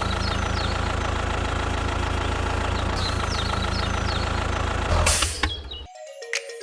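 Heavy diesel engine idling steadily, with a few brief high chirps over it. Near the end the engine sound cuts off abruptly and quieter held tones follow.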